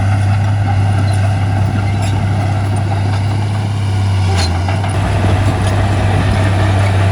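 Diesel engine of heavy earthmoving machinery running steadily, a deep drone that wavers briefly about four and a half seconds in.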